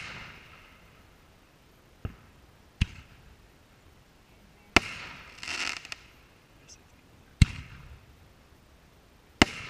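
Aerial firework shells banging, five sharp reports about two, three, five, seven and a half, and nine and a half seconds in, each trailed by a fading echo. Just after the third bang comes a short rush of noise.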